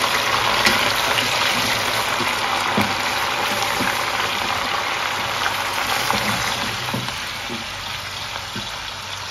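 Oil sizzling in a pot as chopped vegetables and smoked chicken fry, a steady hiss that slowly dies down.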